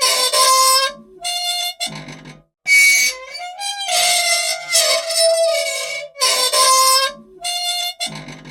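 Squeaky old machine squealing for want of oil: groups of high-pitched squeaks with a clear, shifting pitch, the pattern coming round again about every three seconds.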